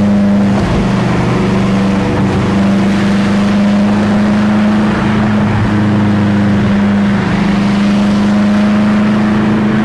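BMW M5 F10's twin-turbo V8 running at steady revs while cruising, its engine note holding a near-constant low pitch, with road and wind noise.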